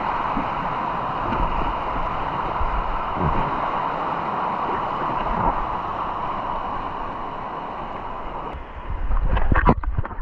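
Steady rush of a river's falling water, an even hiss. Near the end it breaks off into closer, uneven noise with a low rumble and several sharp knocks.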